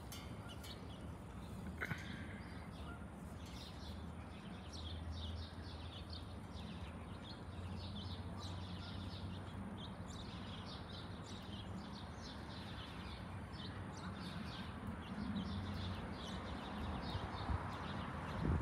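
Small songbirds chirping in quick, repeated short calls over a faint, steady low rumble.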